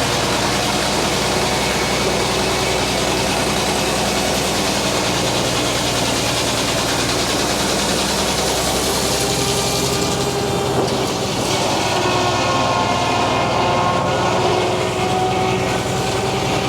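Frick sawmill's 48-inch circular blade sawing through a big poplar log, with the mill's drive running steadily under the cut. About ten seconds in, the low rumble drops away and a steadier ringing tone comes in.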